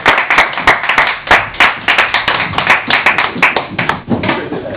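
Comedy club audience applauding at the end of a set, the clapping thinning out about four seconds in.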